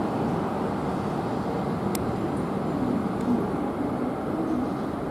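Steady rumble of a Shinkansen train at a station platform, with one sharp click about two seconds in.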